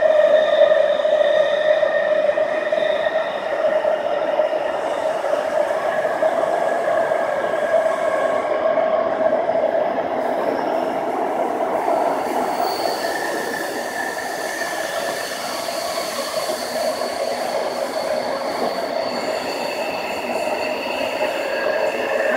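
Running noise of a Tsukuba Express TX-2000 series electric train heard from inside the car: a steady rumble of wheels on rail with several sustained whining tones above it. The whine changes pitch about halfway through.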